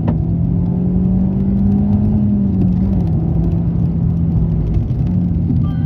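Suzuki Swift Sport ZC32S's M16A 1.6-litre naturally aspirated inline-four, breathing through a Monster Sport PFX300 intake filter and a GReddy sports-catalyser exhaust manifold, running at held revs. Its pitch rises a little and falls back about halfway through, with a brief lift near the end.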